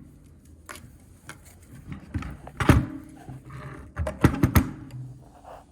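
Metal clunks and knocks as a heat pump blower motor and its parts are handled. The loudest knock comes between two and three seconds in and three more come quickly near four and a half seconds, some leaving a short ringing.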